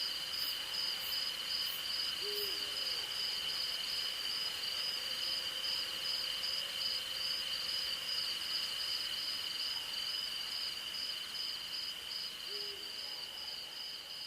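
Night insects and crickets trilling, one in a steady high buzz and another in a regular pulsing chirp. An owl hoots once about two seconds in and again near the end, each a short, low call.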